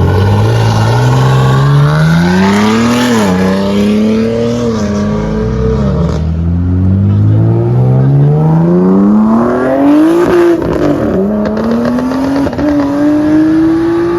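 Performance car engine under hard acceleration. Its pitch climbs through each gear and drops at each upshift: about three seconds in, around six seconds, and about ten and a half seconds in, then it climbs again near the end.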